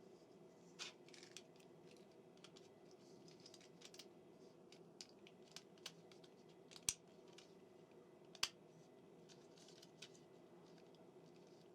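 Faint clicks and light scraping of small plastic model-train parts being handled and pressed together, with two sharper snap-like clicks about 7 and 8.5 seconds in, over a low steady hum.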